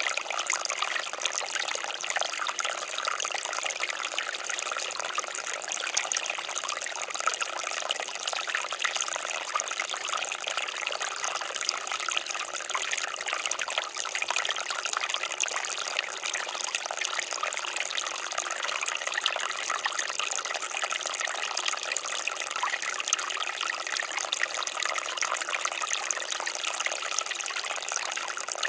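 Water fountain splashing and trickling steadily, a continuous bright patter of falling water.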